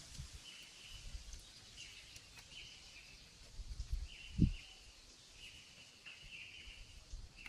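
A bird calling in the woods with a string of short, high chirps repeated at irregular intervals, over faint outdoor background. A single dull low thump comes about four and a half seconds in.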